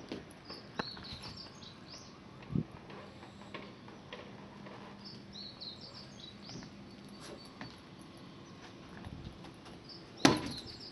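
Small birds chirping in two short runs of quick rising chirps over a faint low hum, with a soft thump. Near the end comes a loud clatter.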